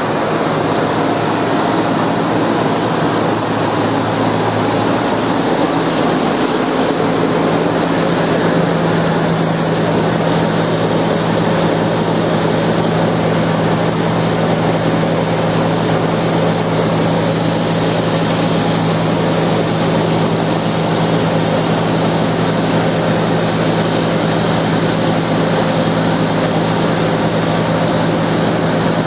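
Sawmill running: a loud, steady engine drone with a constant hum, unchanging throughout.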